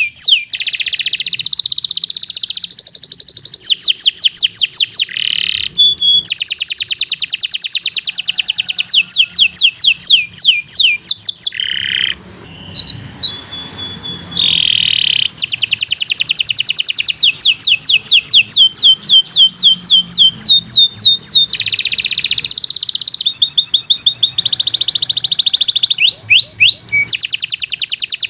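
Domestic canary singing a long, loud song made of rapid trills. Each trill repeats one short sweeping note many times a second, then switches to a new note every second or two. The song drops out briefly about halfway through, then resumes.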